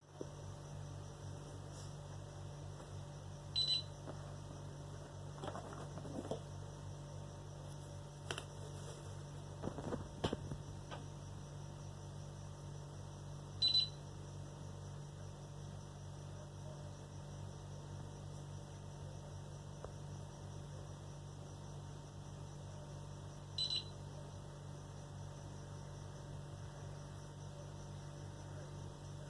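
Steady electrical hum with a short, high electronic beep three times, about ten seconds apart, and a few faint clicks.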